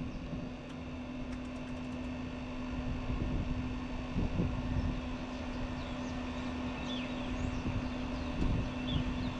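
Traeger pellet grill running, its combustion fan motor humming at one steady pitch over a low rumble. The fan is a new motor whose bearing the owner judges bad.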